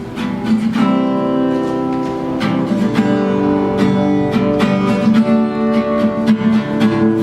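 Acoustic guitar strumming chords, the strings ringing on between strokes, with no singing.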